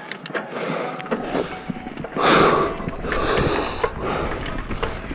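Downhill mountain bike being ridden over a trail: clattering knocks and rattles from the bike over rough ground, with tyre noise and wind rushing on the microphone. The rumble of the wind comes in about a second in, and a louder rush comes just after two seconds in.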